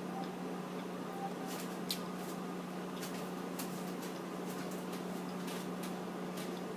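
Close mouth sounds of a person chewing a mozzarella stick: a scattering of short, sharp clicks over a steady low hum.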